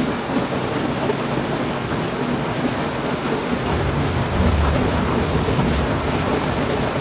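Heavy rain falling steadily, with a low rumble of thunder swelling about four seconds in.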